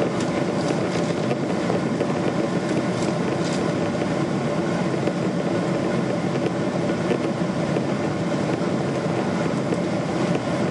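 Steady engine and airflow noise of a Thai Airways Boeing 777-200 with Rolls-Royce Trent engines at takeoff power, heard inside the cabin: an even rushing sound with a faint steady hum through it.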